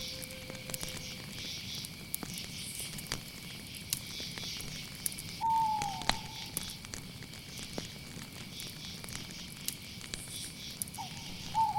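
Night ambience: crickets trilling steadily over a crackling fire with scattered sharp pops. A night bird gives a short falling call about five and a half seconds in and again near the end.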